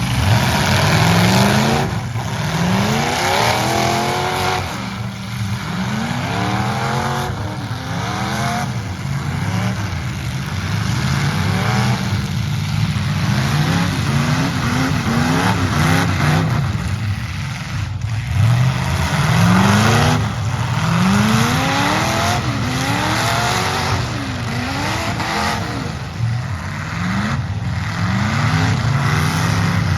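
Several demolition derby truck engines revving hard, their pitch climbing and falling over and over as the trucks accelerate and back off, with a few sharp crashing hits between them.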